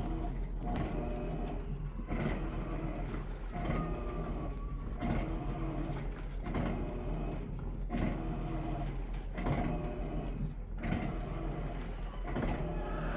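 Electrolux LTC15 washing machine agitating: the motor runs in repeated strokes, about one every second and a half, each with a whine and a short pause between.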